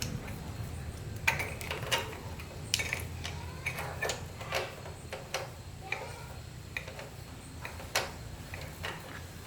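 Metal hand tools clicking and clinking irregularly against metal parts, a dozen or so sharp knocks, over a low steady hum.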